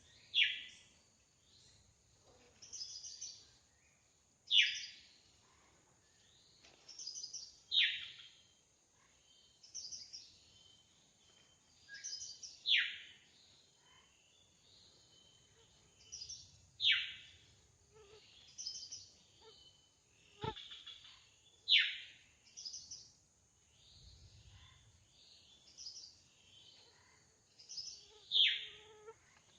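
Drongo singing: a loud call sliding down in pitch, repeated every few seconds, with softer high chattering notes between, over a steady high hiss. A single sharp click about two-thirds through.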